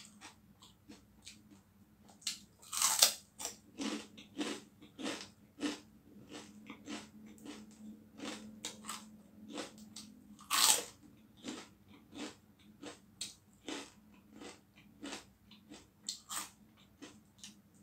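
Close-up crunching and chewing of crispy fried pork rind (chicharon), many short crackling bites, with the loudest crunches about three seconds and about ten and a half seconds in.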